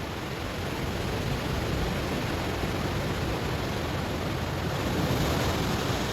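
Ocean waves washing onto a stony shore: a continuous rush of surf that swells to a peak near the end.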